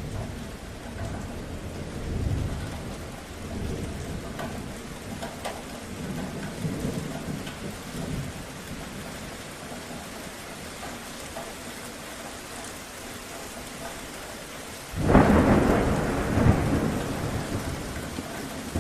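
Steady rain with thunder: low rolling rumbles through the first half, then a sudden loud thunderclap about fifteen seconds in that rumbles on with a second peak before fading.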